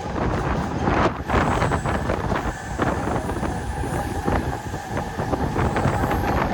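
Mumbai suburban electric local train running on the track: a steady rumble with rattling clicks, and a faint steady whine in the second half.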